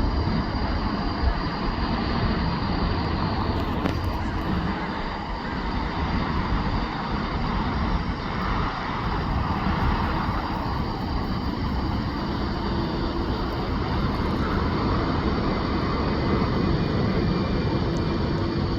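Large jet airliner's engines running, a steady noisy rumble with no clear rise or fall.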